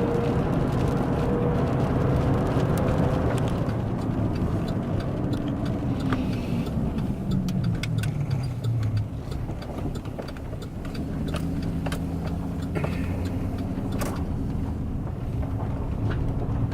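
Vehicle engine and road noise heard from inside the cab. The engine note falls in pitch midway through as the vehicle slows, then runs steadily at low speed. Scattered light clicks run through the second half.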